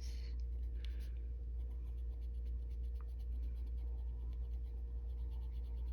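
Colored pencil shading on paper in quick, even back-and-forth strokes, a soft scratching, over a steady low hum.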